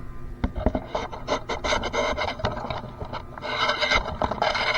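Irregular rubbing and scraping with scattered clicks, like something being handled or dragged against a hard surface, louder near the end.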